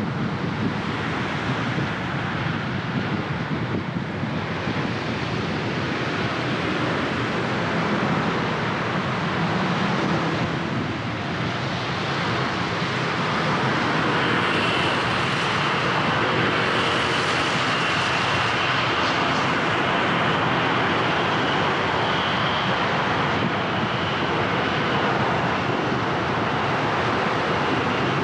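Steady road and traffic noise of a car driving on a wet city street, the hiss of tyres on wet tarmac, swelling a little about halfway through, when a faint high steady whine joins in.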